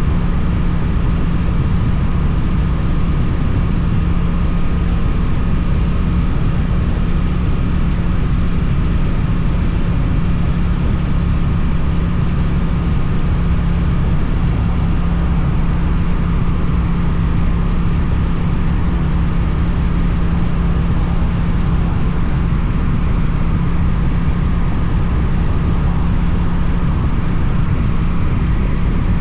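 Suzuki GSX-8TT motorcycle engine with an Akrapovic exhaust, running at a steady, unchanging engine speed while riding.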